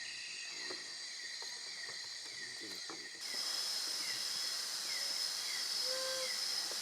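Rainforest insect chorus: steady high-pitched buzzing and trilling, with a short falling chirp repeating about every 0.7 seconds. The chorus changes suddenly about three seconds in.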